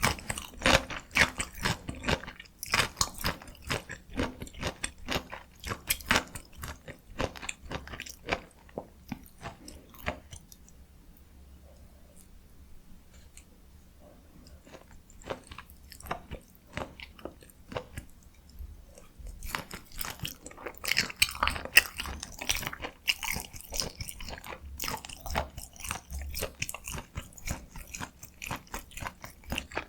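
Close-miked chewing of spicy stir-fried chicken, with wet clicks and crunches. The chewing goes quiet for several seconds mid-way and picks up again.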